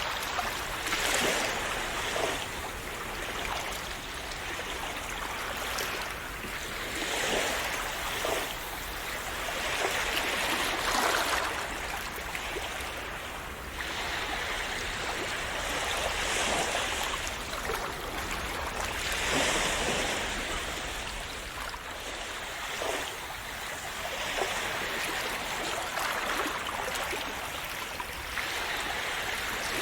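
Calm sea waves splashing, the wash swelling and easing every four or five seconds.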